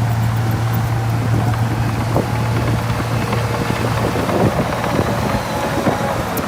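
Heavy diesel engine of an earthmoving machine running steadily under load, a constant low hum with scattered knocks and rattles of metal over it.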